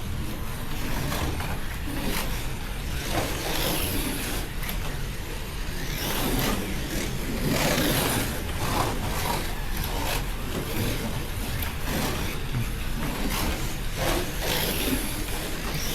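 Slot cars lapping a track, their small electric motors whining and rising and falling in pitch as they speed up and slow down, with steady rattle from the track.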